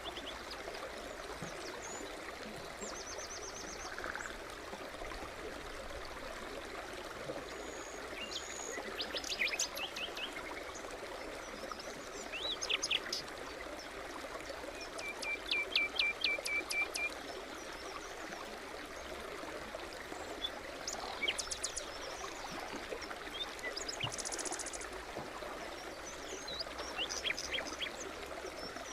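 Small forest stream babbling steadily, with songbirds calling over it in short phrases of quick repeated notes and trills, the loudest about halfway through.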